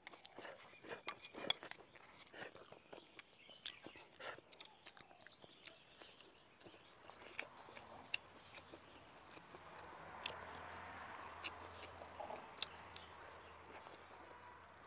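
Close-up chewing of octopus tentacle, with many short wet mouth clicks and smacks, picked up by a clip-on microphone. About ten seconds in, a faint steady background noise swells for a few seconds, then fades.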